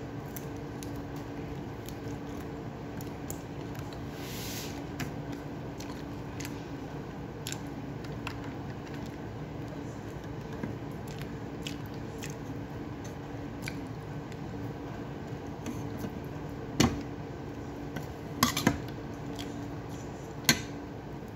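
A person chewing food by hand-fed mouthfuls close to the microphone, with many small mouth clicks over a steady low hum. A few louder sharp knocks come near the end, about four seconds apart.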